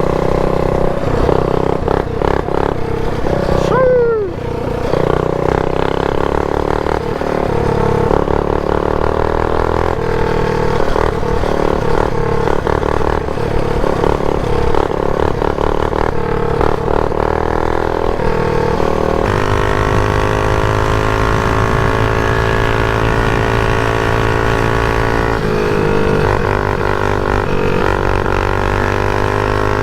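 Mini bike's small single-cylinder engine running under throttle while riding, its pitch rising and falling with the throttle. A short falling whine sounds about four seconds in, and from about two-thirds through the engine settles into a steadier drone.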